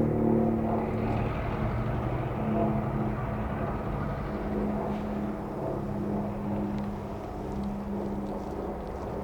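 Diesel locomotive engine running steadily, a low droning hum with a strong steady tone.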